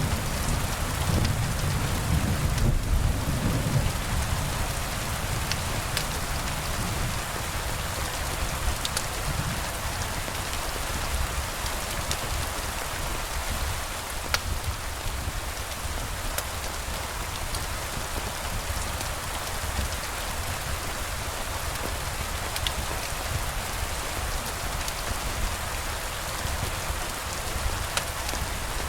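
Steady rain falling, with a low rumble of thunder dying away over the first few seconds and a few faint sharp ticks scattered through.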